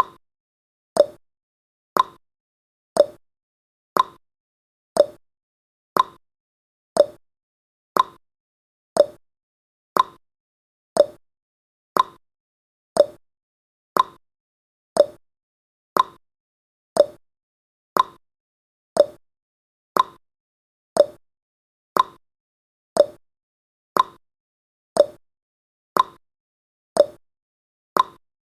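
Clock-ticking sound effect of a countdown timer: one sharp tick each second, alternating between a higher and a lower tick like a tick-tock.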